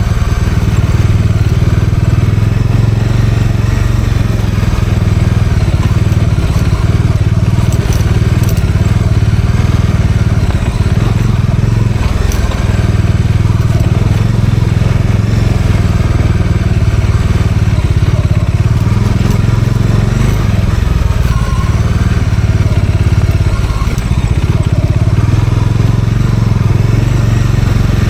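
Bajaj Dominar 400 motorcycle's single-cylinder engine running steadily under way, with crunching and crackling from the tyres on a rough forest track.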